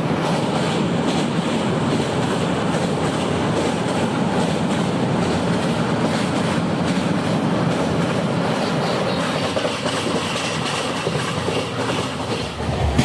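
Moving passenger train heard from inside the coach: a steady rumble and rattle of the carriage running on the rails, dipping slightly near the end.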